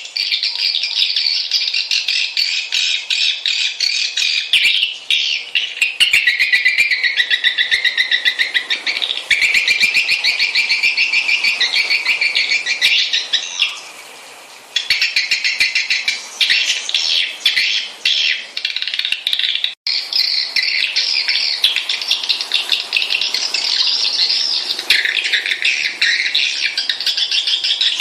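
Swiftlets twittering in a dense, rapid stream of high chirps, as on a swiftlet lure call track played to draw the birds in to roost and nest. The chirping thins briefly about halfway through and cuts out for an instant shortly after.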